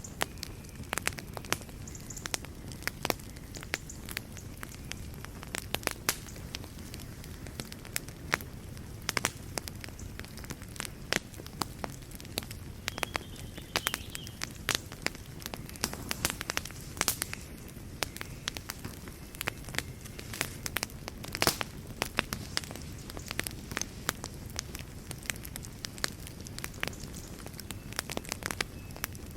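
Wood fire burning in a fireplace: frequent sharp, irregular crackles and pops over a soft steady hiss of the flames.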